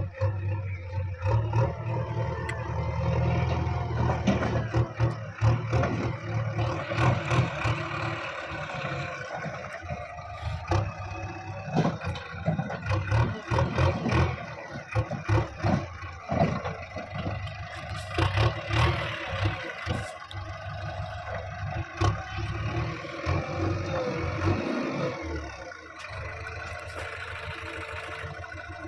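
Heavy diesel machinery running and revving, with repeated clanks and knocks of metal and earth being worked.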